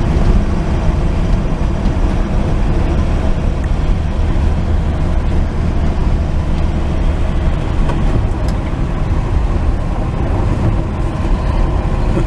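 1949 Chevy truck driving at a steady pace: a continuous engine and road-noise rumble with no gear change or rev.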